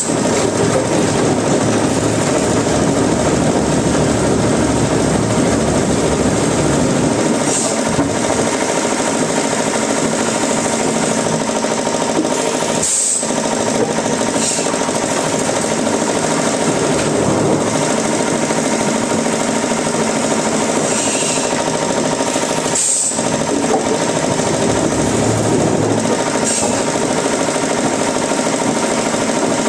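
Wood-processing machinery running steadily with a loud, dense mechanical noise, breaking off for an instant twice.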